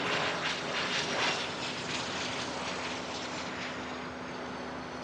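Engine noise of a passing aircraft: a steady rushing sound with a thin high whine that falls slowly in pitch while the whole sound slowly fades.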